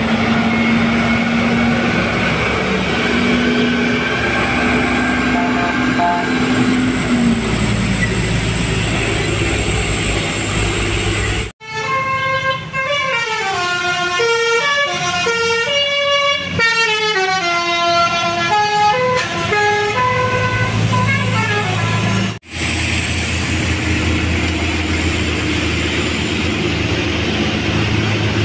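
Heavy road vehicles' engines running on a hill climb. After an abrupt cut, about ten seconds of a tune in clear stepped notes rising and falling, then another abrupt cut back to the engines.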